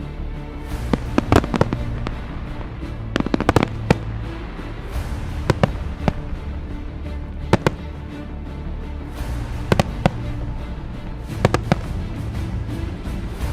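Fireworks going off as sharp bangs in clusters, roughly every two seconds, over music.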